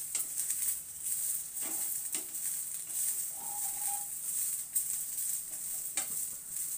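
Chopped cluster beans sizzling in a little oil in a nonstick frying pan, stirred and turned with a plastic spatula, with a few scrapes and rattles as the pieces are tossed. They are being roasted until their raw smell is gone. A brief high tone sounds about halfway through.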